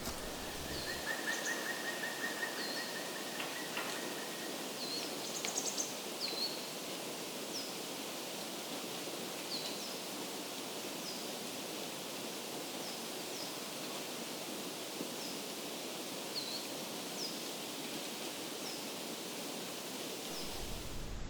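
Outdoor mountain ambience: a steady rushing noise with a small bird giving short, high chirps over and over at irregular intervals. A thin, steady high note sounds for a few seconds near the start.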